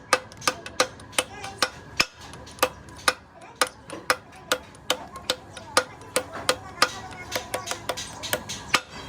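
Hammer striking steel in quick, steady blows, about two or three a second, each with a short metallic ring.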